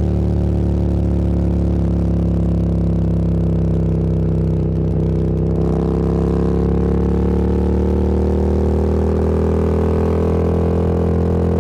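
Motorcycle engine running under way. After a brief dip about halfway, the engine note climbs slowly as it accelerates.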